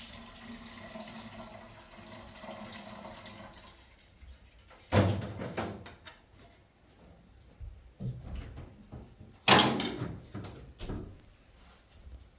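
Water running steadily for about four seconds, then a series of knocks and bangs, two of them loud.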